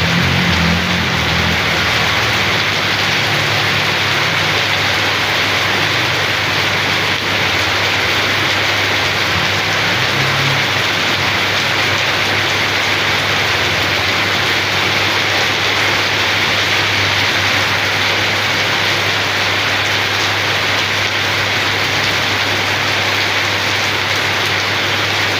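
Steady rain falling, an even loud hiss that does not let up, with a constant low hum underneath.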